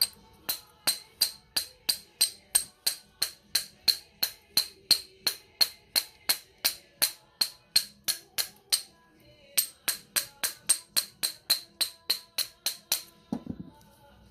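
Sharp, evenly spaced percussive clicks, about three a second, like a tambourine or hi-hat beat, with a short break about nine seconds in; they stop about thirteen seconds in and a low thud follows.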